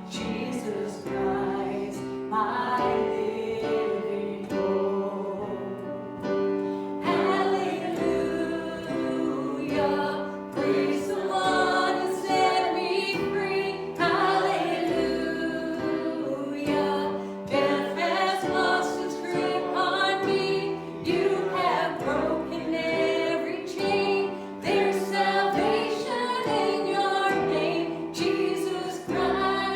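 Congregational worship singing, many voices singing a hymn or worship song together with instrumental accompaniment.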